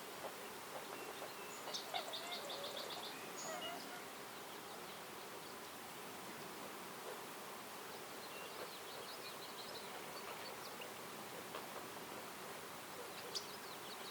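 Wild songbirds in woodland: a quick trill of rapid high notes about two seconds in, a fainter trill around the middle, and a few sharp chirps near the end, over a steady background hiss.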